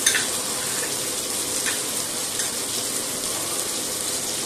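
Sliced onions frying in hot oil in a stainless steel pot, with a dollop of ginger-garlic paste just added: a steady, even sizzle, with a light click near the start.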